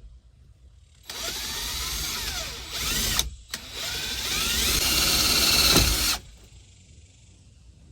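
Power drill running in two bursts of about two seconds each with a short pause between; the second burst grows louder before it stops.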